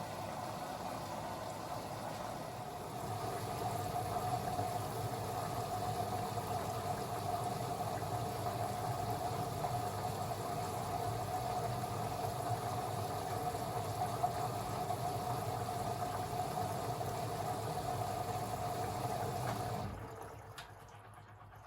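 Beko WA 1050 washing machine running: a steady mechanical noise with a held whine, louder from about three seconds in, cutting out shortly before the end.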